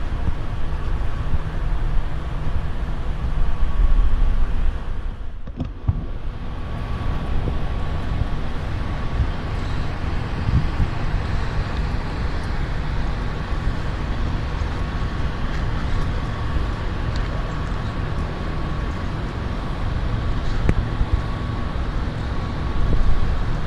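Steady engine noise of an idling heavy diesel truck, a constant low rumble with a thin steady whine over it and a brief dip about five and a half seconds in.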